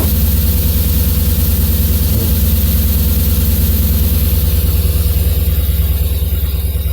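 BMW S50 straight-six engine idling warm with a misfire, a steady low pulsing run.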